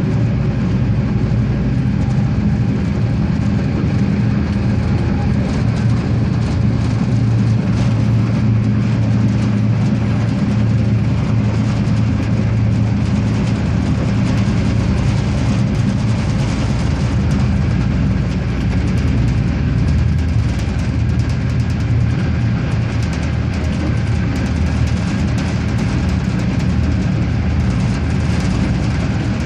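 Regiosprinter diesel railcar under way: a steady diesel engine drone with wheel-on-rail running noise and scattered faint clicks.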